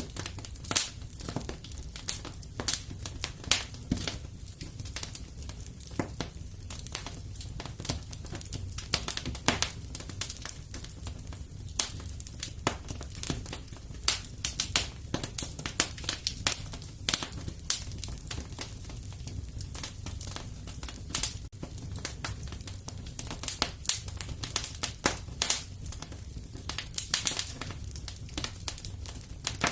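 Wood fire crackling in a fireplace: frequent irregular pops and snaps over a low, steady rumble.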